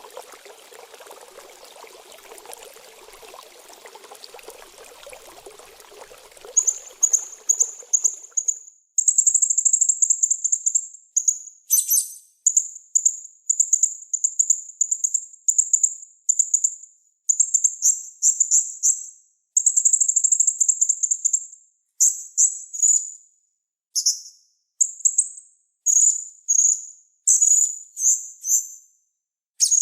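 Trickling, flowing water fades out about seven seconds in, and a small songbird's very high-pitched song takes over: rapid trills in short, repeated bursts with brief pauses between them. A master song recording for training cage birds.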